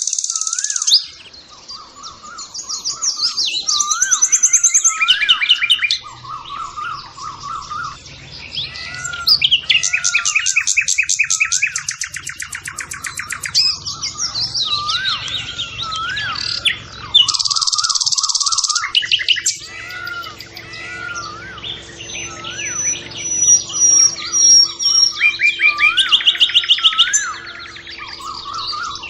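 Many small birds chirping and singing over one another: fast buzzy trills alternate with a whistled, wavy note that repeats again and again.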